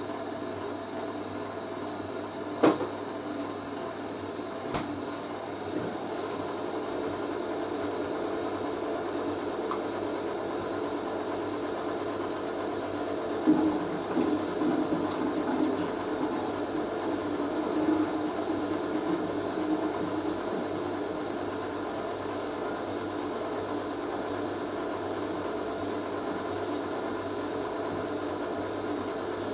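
Hoover A3060 Electronic 1100 washing machine on its intermediate spin, the motor and drum running steadily with a balanced load. There are a couple of sharp knocks in the first few seconds and a slightly louder patch about halfway through.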